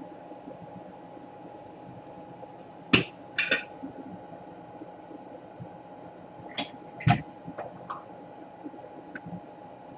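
A few sharp clicks and taps from small tools and parts being handled on a repair bench, in two clusters about three and seven seconds in, over a faint steady hum.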